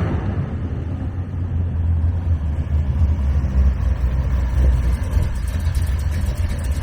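1955 Chevrolet 210's engine idling steadily with a low, even exhaust note.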